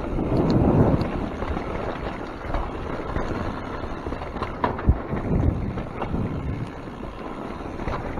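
Wind buffeting the microphone of a mountain biker's camera over the rumble of tyres rolling on a wet trail, with scattered knocks and rattles from the bike and one sharper thump about five seconds in.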